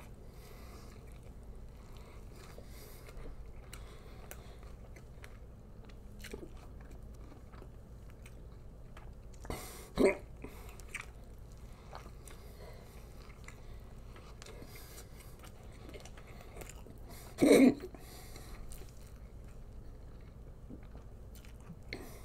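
A man biting into and chewing a Double Whopper burger fast, a faint, steady run of mouth sounds. There are two short, louder noises about ten and seventeen seconds in.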